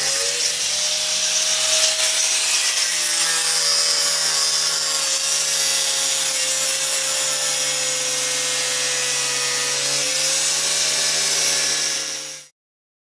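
Angle grinder cutting metal: a steady motor whine over a loud hissing grind, which cuts off suddenly near the end.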